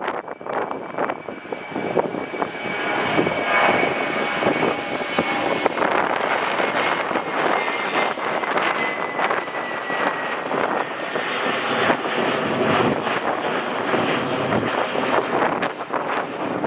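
Airliner engines passing close by, a loud steady rush with a high whine that slowly falls in pitch as the aircraft goes past. Wind buffets the microphone.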